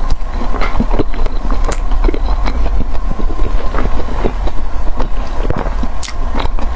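Close-miked eating: a person biting and chewing food, with many irregular short clicks and smacks over a steady low hum.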